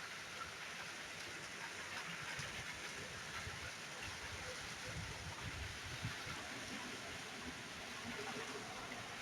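Rain falling steadily in a summer rainstorm: an even hiss of many drops, with some low rumbling about halfway through.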